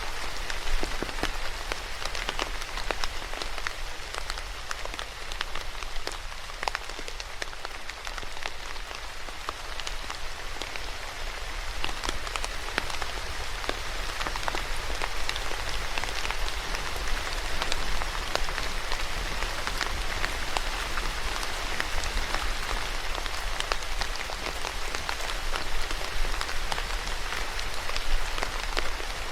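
Steady rain falling on a surface, an even patter of many individual drops hitting close by.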